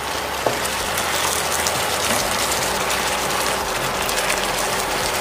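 Chopped tomatoes sizzling in hot oil in a frying pan as they are stirred with a wooden spatula: a steady crackling hiss, with a light knock about half a second in.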